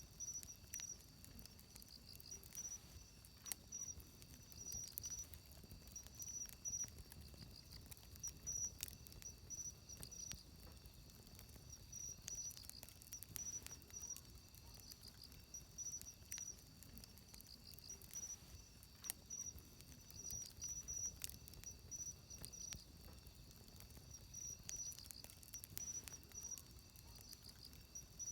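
Wood fire crackling with scattered sharp pops over a low steady rumble, while insects chirp in short repeated trills in the background.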